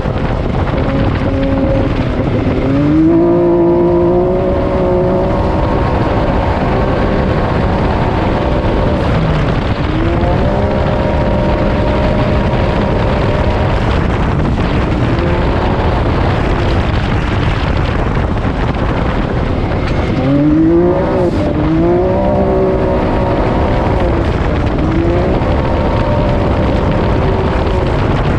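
Can-Am Maverick X3 side-by-side's engine running hard, its pitch climbing with each acceleration and then holding steady, about three times over.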